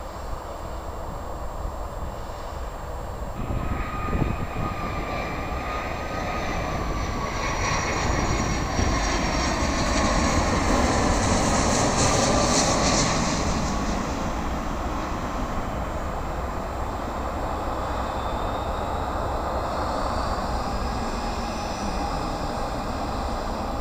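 Jet airliner passing close by: its engine noise builds over several seconds, peaks about halfway through with a loud high whine, then fades, the engine tones bending in pitch as it goes past.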